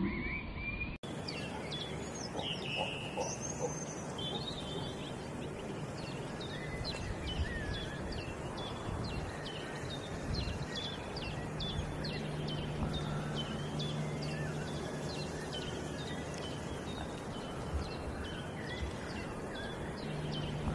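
Outdoor ambience: a steady rush of noise with a bird calling in short, high chirps repeated about twice a second.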